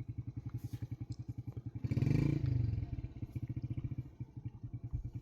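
Motorcycle engine idling with an even chugging beat, about ten pulses a second, briefly swelling louder about two seconds in.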